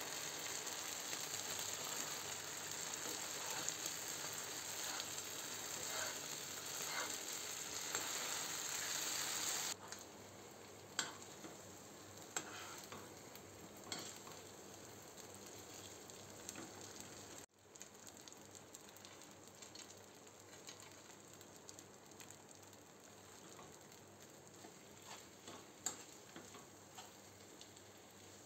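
Mashed boiled potato sizzling as it roasts in ghee in a nonstick pan, stirred with a steel spoon. The sizzle is loud for about the first ten seconds, then drops to a quieter fry with scattered spoon taps and scrapes on the pan.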